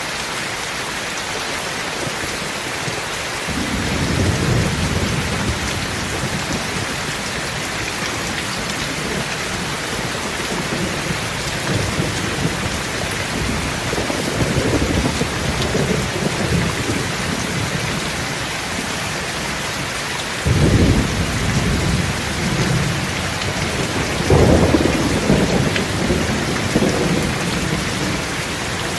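Heavy rain falling in a steady hiss, with several deep low rumbles swelling over it, the first about three and a half seconds in and a sudden one about two-thirds of the way through.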